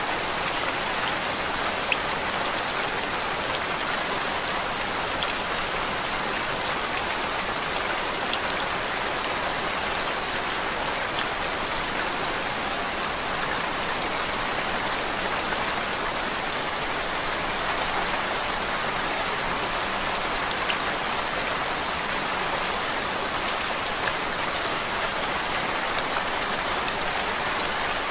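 Steady rain falling on a surface: an even hiss with scattered faint drop ticks.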